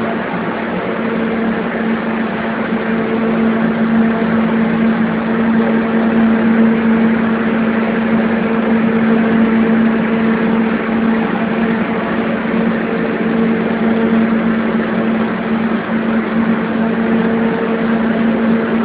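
Water-damage restoration equipment running: a loud, steady machine drone with a constant hum and no change in speed.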